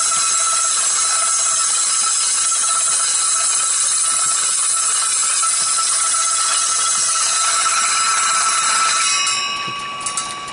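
Small belt-driven circular saw, powered by a little petrol engine, running with a steady high-pitched whine while a hand-held piece of wood is cut. Near the end the sound drops in level and becomes uneven.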